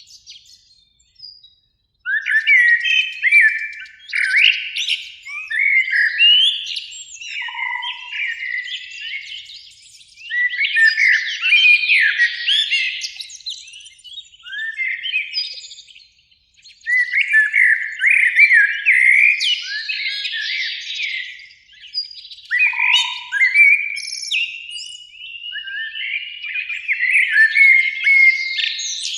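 Common blackbirds singing: runs of quick, gliding and twittering notes in long phrases separated by short lulls, beginning about two seconds in.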